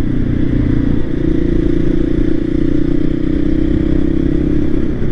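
Voge 300 Rally's single-cylinder engine running at a steady, low road speed, its note stepping up slightly about a second in.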